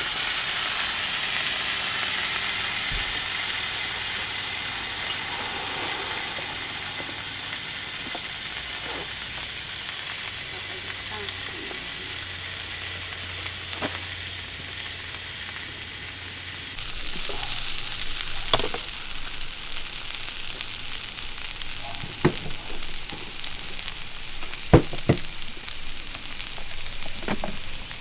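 Meat frying in oil in a pan, a steady sizzle. From about two-thirds of the way in, several sharp knocks sound over the sizzle.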